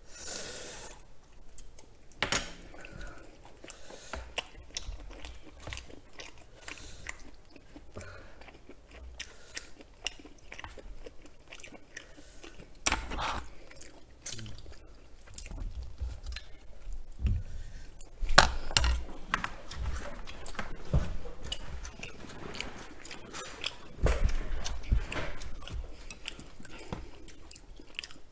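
Close-miked chewing and biting of truffle cream jjimdak, soft braised chicken and creamy wide noodles, with many short wet smacks and clicks and a few louder bites now and then.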